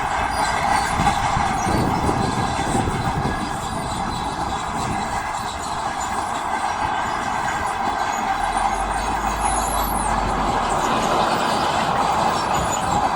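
Heavy earthmoving machinery working: a steady engine drone, with a heavier low rumble for a couple of seconds near the start.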